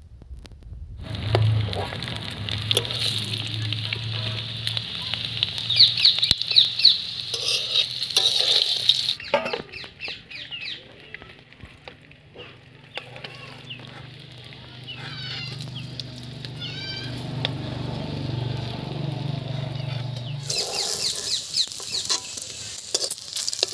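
Whole boiled eggs sizzling in hot oil in an iron kadai, with a metal spatula turning them. The hiss eases off in the middle, where chickens are heard clucking, and returns loudly near the end.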